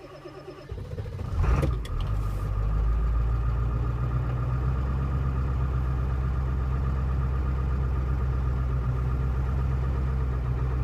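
Ford Excursion's 7.3-litre Power Stroke V8 turbo-diesel on a cold start: it cranks for about a second and catches almost at once, then settles into a steady idle. This is a quick cold start after two glow-plug heat cycles, as a healthy 7.3 should start.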